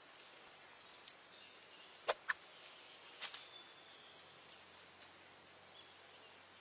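Faint background hiss broken by three sharp clicks: two close together about two seconds in and one about a second later.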